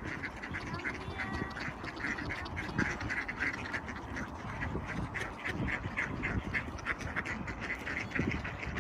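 A crowd of ducks quacking in rapid, overlapping short calls as they jostle for food, over a steady low rumble.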